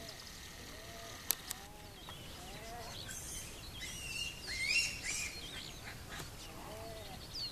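Birds calling: a repeated series of short, lower-pitched arching calls, with brighter chirps and whistles joining in and loudest about halfway through. Two sharp clicks sound about a second and a half in.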